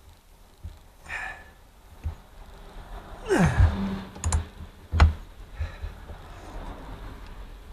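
Scattered sharp clicks and knocks, with one short creak falling in pitch about three and a half seconds in.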